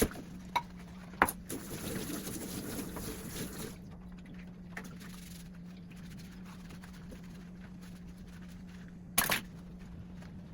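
Kitchen tap water running for about two seconds, between a few sharp clinks and knocks of dishes or utensils, over a steady low hum.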